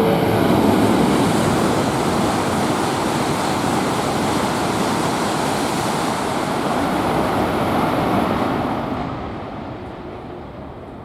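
Tohoku Shinkansen train passing through the station at speed without stopping: a loud, steady rush of air and wheel noise that fades away after about eight seconds.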